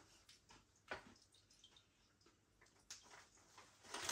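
Near silence, with a few faint crunches from crisp potato-ring snacks being bitten and chewed: one about a second in, another near three seconds, and a few more near the end.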